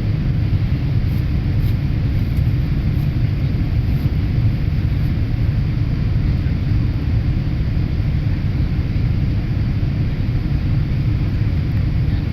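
Steady low drone of an airliner's engines and airflow, heard inside the passenger cabin.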